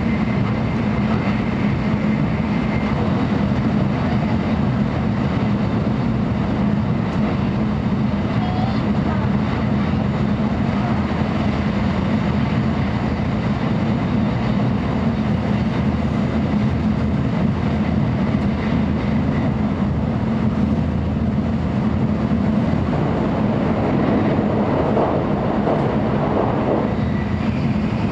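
Passenger-cabin noise of a JR Central N700A Shinkansen running on the line: a steady low rumble and rush from the running gear and the air, swelling louder for a few seconds near the end.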